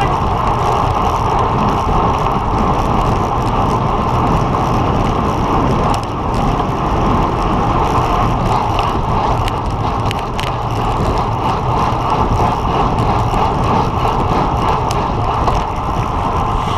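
Road bike riding along at speed: steady wind rushing over a bike- or helmet-mounted microphone, mixed with tyre and road noise, with a few faint clicks.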